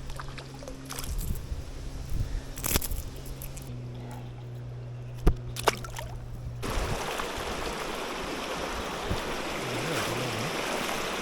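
Flowing river water, with a steady low hum and light sloshing, and two sharp knocks about five seconds in. A little after halfway the sound changes suddenly to a louder, even rush of moving water.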